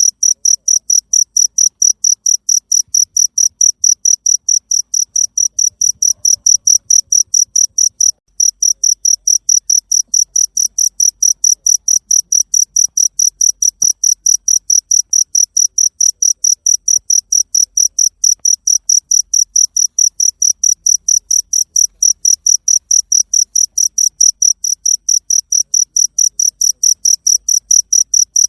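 A cricket chirping: high, evenly spaced chirps repeating several times a second, with one short break about eight seconds in.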